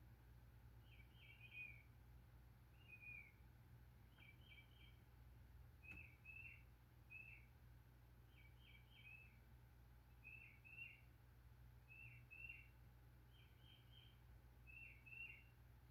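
A songbird, faint, calling repeatedly: short phrases of two or three quick notes, one about every second and a half.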